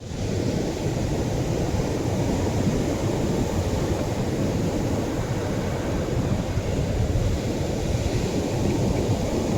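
Atlantic surf breaking on a beach, a continuous low rumbling wash with no distinct single waves. There is a sudden brief drop in level right at the start, like a splice in the recording.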